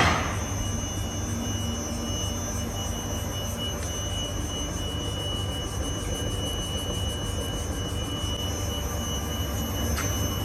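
Vibration test stand shaking a Mercedes GLE's air suspension: a steady low rumble with a faint high whine over it, run as a check for a knock in the air suspension. A brief loud burst of noise at the very start.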